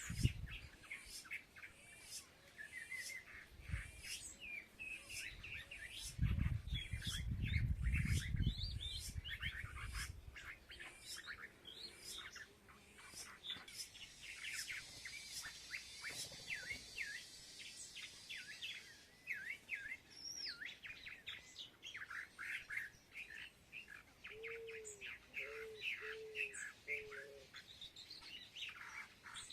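Many small birds chirping and twittering over one another while feeding, in a steady stream of short calls. A low rumble rises over them for a few seconds about six seconds in, and near the end four short, low notes sound in quick succession.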